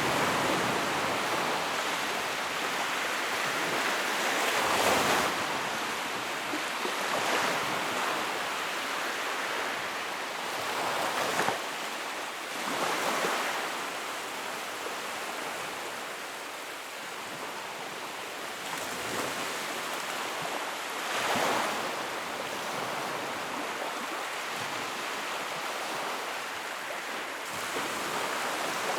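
Wood fire in a fireplace crackling: a steady hissing crackle with a few brief louder pops and flare-ups.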